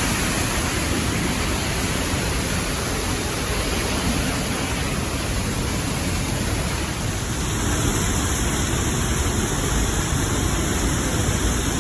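Steady rushing of the falling water at Niagara Falls, an even noise that does not let up.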